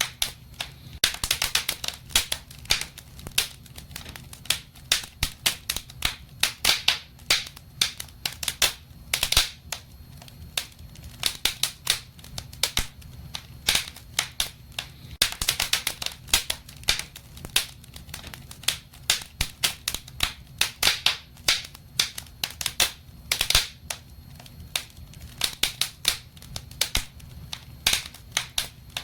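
Wood fire in a fireplace crackling: a dense, irregular run of sharp pops and snaps over a low, steady rumble.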